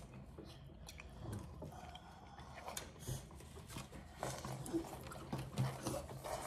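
A person eating spicy tteokbokki and noodles close to the microphone: chewing with many small irregular wet clicks and smacks.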